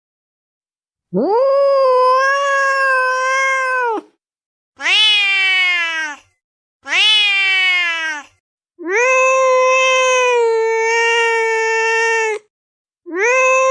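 Cat crying in long, drawn-out meows, five cries in all. The first is about three seconds long at a steady pitch, the next two are shorter and fall in pitch, and a fourth long, level cry is followed by a fifth that starts near the end, with clean silent gaps between them.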